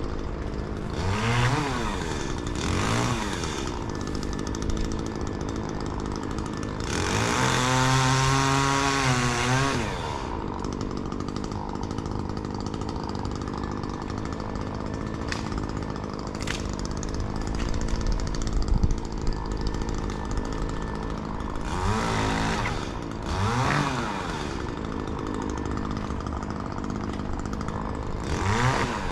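Two-stroke chainsaw idling, with its engine blipped up and back down several times. Around a third of the way in it is held at full throttle for about three seconds.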